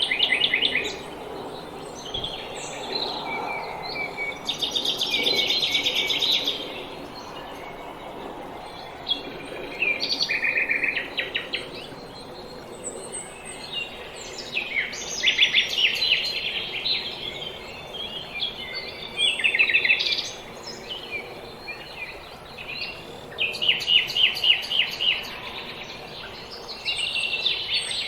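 Small songbirds singing: bursts of rapid, high trilled notes every few seconds, over faint background noise.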